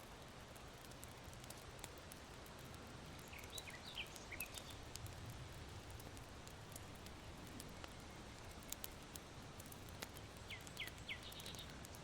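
Charcoal embers in an irori hearth crackling with faint, scattered ticks over a steady hiss of wind. Small songbirds chirp in two brief clusters of quick high notes, about three seconds in and again near the end.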